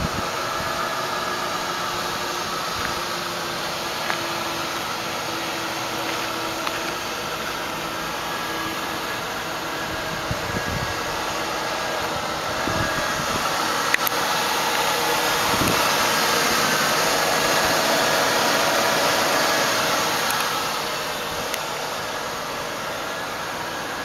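A 2000 Lincoln Town Car limousine's 4.6-liter V8 engine idling steadily, heard from outside the car at the front, under a steady hiss; it grows somewhat louder for a few seconds in the middle.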